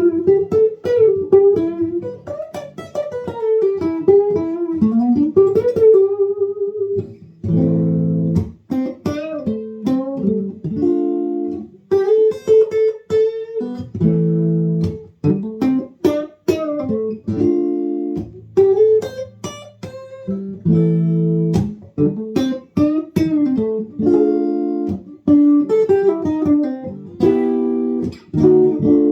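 Electric guitar, a Chinese copy of the semi-hollow Gibson DG-335, played on the neck pickup with the tone rolled back for a "woman tone". It opens with bending single-note lead lines, and about seven seconds in it changes to repeated strummed chords.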